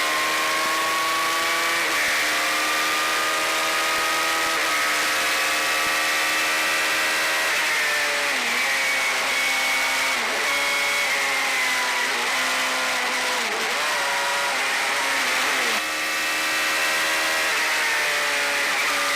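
Suzuki Hayabusa inline-four motorcycle engine in a single-seater race car running hard at high revs. Its pitch climbs and drops sharply twice as it shifts up in the first seconds, then falls and picks up again several times through the second half as it slows and shifts down for corners.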